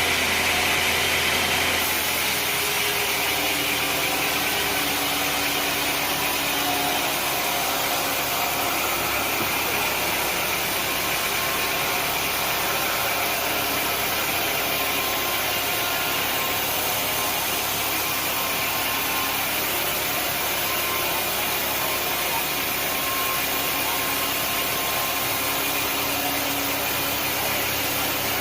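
Sawmill machinery running steadily, an engine-like drone under a haze of noise. It eases slightly about two seconds in.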